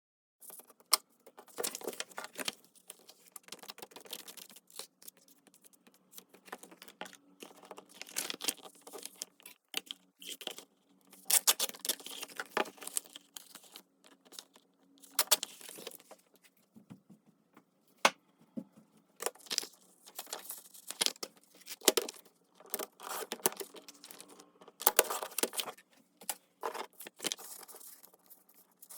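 Paper and small craft materials being handled close to the microphone: irregular rustling and crinkling of paper with sharp little clicks and taps, in short bursts with brief pauses between them.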